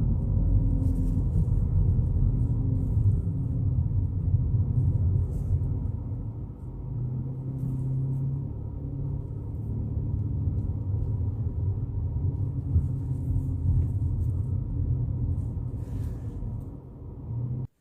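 Volkswagen Polo GTI's turbocharged 2.0-litre four-cylinder engine and tyre noise while driving: a steady low rumble. It cuts off suddenly near the end.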